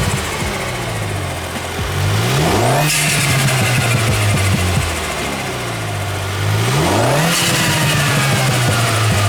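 F56 Mini Cooper S's turbocharged four-cylinder engine accelerating, its pitch climbing steeply about two and a half seconds in and again about seven seconds in, with a rising whistle above it each time. Turbo and intake noise comes through a foam panel air filter.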